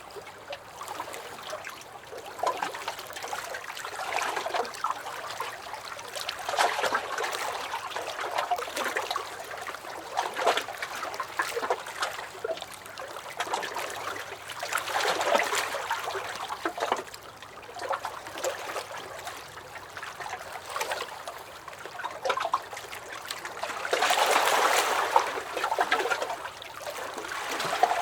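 Small lake waves lapping and sloshing against a dock, coming in irregular swells with little splashes, one larger swell near the end.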